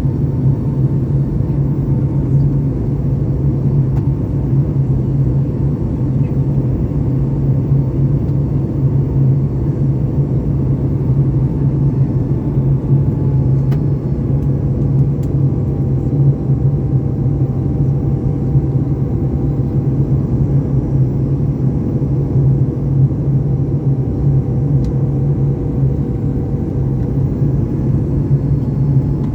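Steady cabin noise inside a Boeing 737 MAX 8 on approach: a loud low drone of airflow and its CFM LEAP-1B engines, with faint steady tones above it, one of which sags slightly in pitch midway and then recovers.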